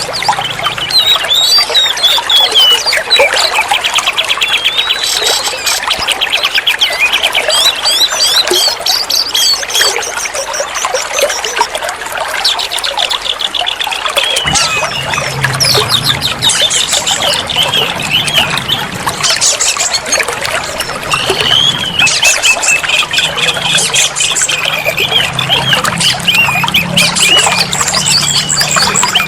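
Oriental magpie-robin (kacer) singing continuously, a varied run of whistled phrases and rapid trills, over the steady sound of trickling, pouring water.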